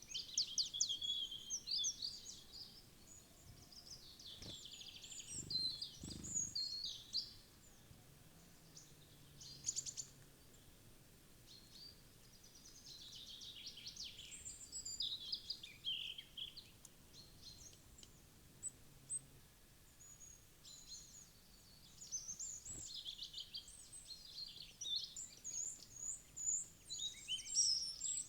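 Wild forest birds chirping and calling in overlapping bouts of short, high notes and trills, busiest at the start and near the end, with a soft low thud about five seconds in.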